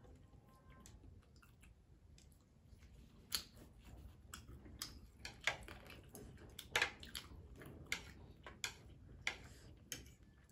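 Quiet eating sounds from two people eating noodles and chicken: chewing with many irregular sharp mouth clicks, sparse at first and coming thick and fast from about three seconds in.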